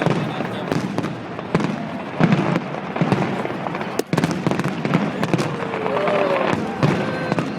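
Fireworks display: a continuous run of bangs and crackles.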